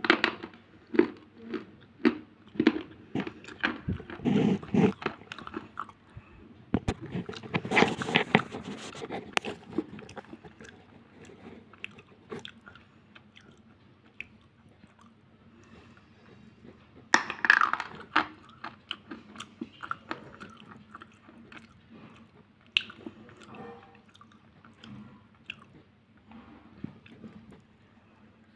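A person biting and chewing a chunk of unshaped slate pencil bar: sharp, crisp crunches as pieces snap off, then softer chewing. The crunching is dense through the first third, comes again in a fresh burst a little past halfway, and is quieter and sparser in between.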